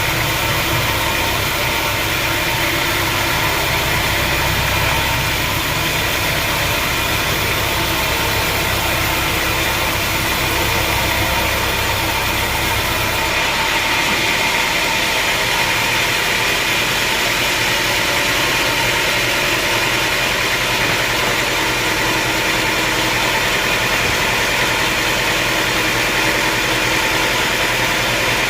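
Sawmill machinery running steadily, an even engine-like drone. About halfway through, the deep rumble drops away and a brighter mechanical hiss carries on.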